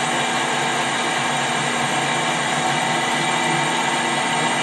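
Metal-turning lathe running steadily, a constant machine whine made of many steady tones.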